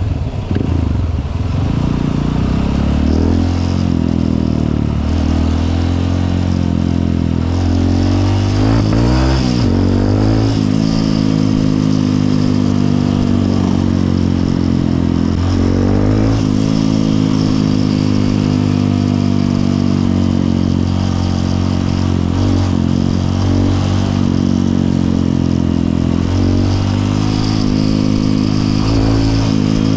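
Honda CRF150L's single-cylinder four-stroke engine on the move, its pitch repeatedly climbing under throttle and then dropping at gear changes and lift-offs.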